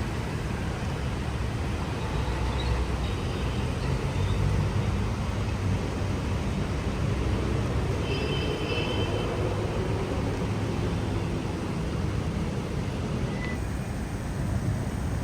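Steady rumble of heavy city road traffic, engines and tyres, with faint high-pitched tones about eight seconds in.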